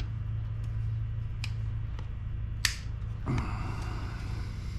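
A few sharp metal clicks, the loudest about two and a half seconds in, as the distributor cap is handled and clipped down on the engine, over a steady low hum.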